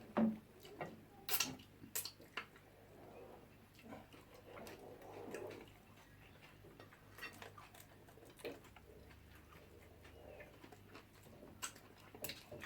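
Eating at the table: scattered light clicks and taps at irregular intervals, a few sharper ones near the start and again near the end, with a faint low murmur in the middle.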